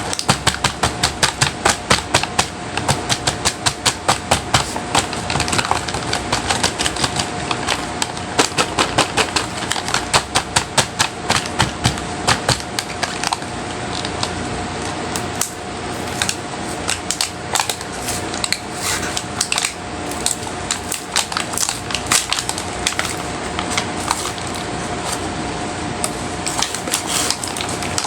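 Rapid sharp clicks and taps of small plastic makeup cases and packaging being handled and opened, several a second at first and sparser later, over a faint steady tone.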